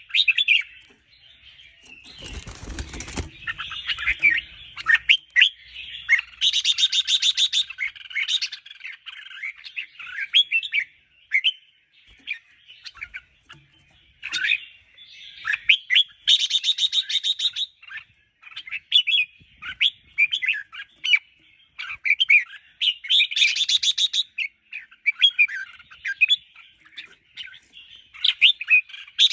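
Red-whiskered bulbuls singing: a steady run of short chirping phrases, broken about every seven seconds by a rapid buzzy trill. A brief low rustle or thump about two seconds in.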